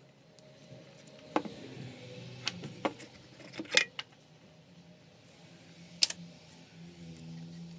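Small metal parts and tools clinking and clicking against each other and the bench during hand disassembly of a belt sander: about half a dozen sharp clicks, with a faint low hum between them.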